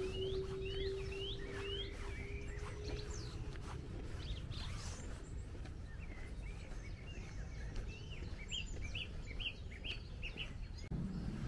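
Songbirds singing in quick runs of short, rising chirps: one run at the start and another from about eight seconds in, over a low rumble. A steady hum fades out about three seconds in.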